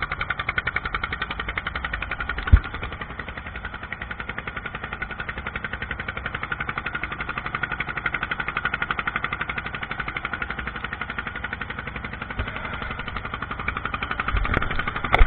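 Small boat's engine running steadily with a rapid, even pulsing, with a few dull thumps about two and a half seconds in and near the end.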